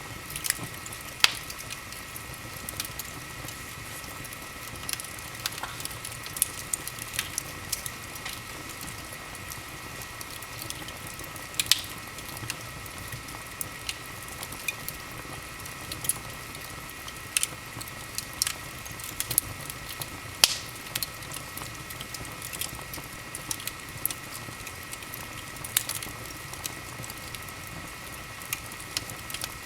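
Wood fire in a fireplace crackling: irregular sharp pops and snaps over a steady soft hiss.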